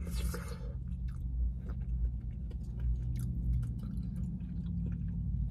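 Close-miked chewing of a mouthful of hot wild rice soup with soaked bread, with soft wet mouth clicks and a short hiss of breath at the start. A steady low hum runs underneath.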